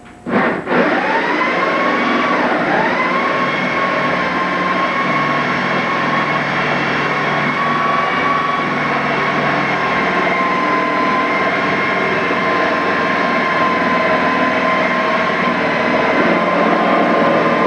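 A motor starts abruptly and runs loud and steady with a constant whine, its pitch dipping briefly about two and a half seconds in before settling back.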